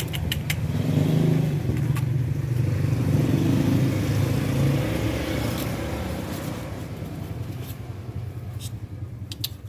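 Motor vehicle engine running close by with a low rumble that slowly fades away over the last few seconds, with a few sharp clicks near the start and again near the end.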